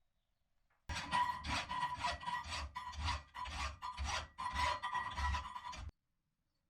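Hand file rasping back and forth on steel flat bar, about three strokes a second, with a faint ring from the metal. It starts abruptly about a second in and stops abruptly near the end.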